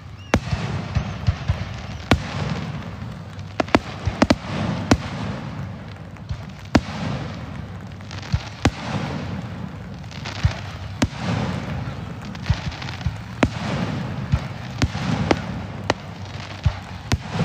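Fireworks display: many sharp bangs and pops, at times several a second, over a continuous rumble and crackle of shells bursting.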